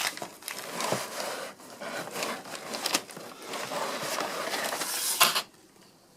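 Ceiling fan blades being handled against their cardboard box: a run of scraping and rubbing with several sharp knocks, stopping suddenly about five seconds in.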